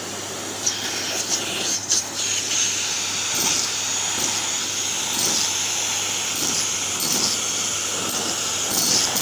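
Henry canister vacuum cleaner running steadily, with short clicks and rattles as small hard objects such as buttons and craft eyes are sucked up the hose.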